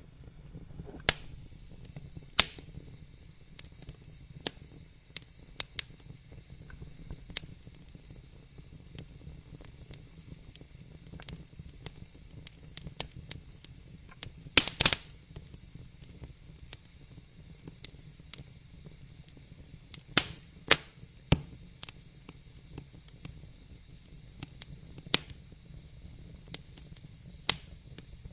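Wood fire crackling in a fireplace: irregular snaps and pops over a low steady rumble. The loudest pops come in a cluster about halfway through and again a few seconds later.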